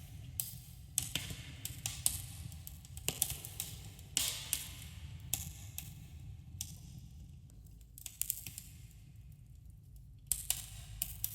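Wood campfire crackling, with sharp irregular pops and snaps over a steady low rumble. The pops thin out past the middle and pick up again near the end.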